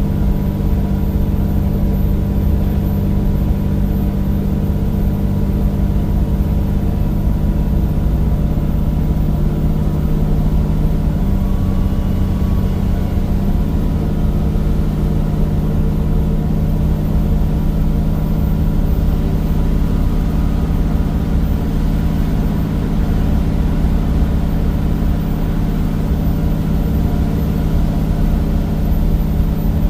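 Cummins diesel engine and ZF automatic gearbox of a Temsa Avenue single-deck bus, heard from on board, running steadily under way. The engine note shifts slightly twice, a little over a third of the way through.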